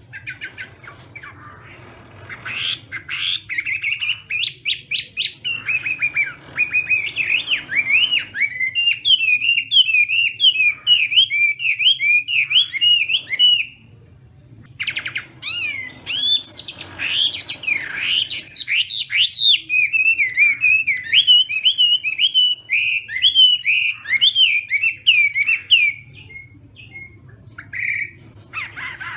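Chinese hwamei singing a loud, rapid, varied song of repeated whistled notes, in two long bouts with a short break about halfway through. A faint low hum lies underneath.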